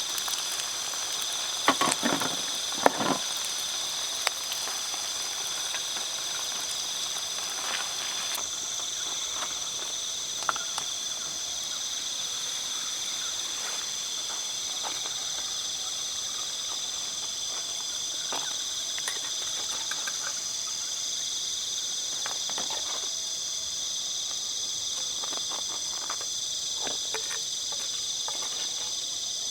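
Steady chorus of insects such as crickets, holding several high tones at once, with a few brief clicks and knocks scattered through it, the loudest about two to three seconds in.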